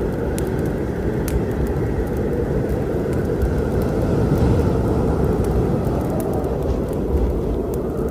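Storm ambience: a steady low rumble with wood fire crackling over it in scattered sharp pops.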